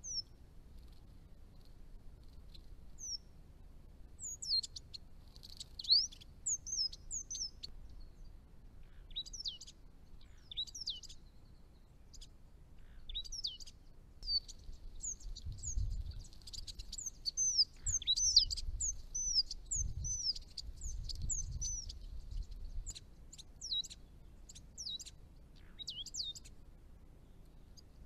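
Small birds calling: a run of short, high chirps and quick down-slurred notes, thicker in the second half. A few low rumbles come through around the middle.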